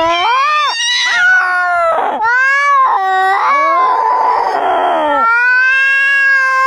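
Domestic cat yowling loudly: a run of long, drawn-out calls that rise and fall in pitch, with a rougher, breathy stretch about four seconds in and a long steady call near the end.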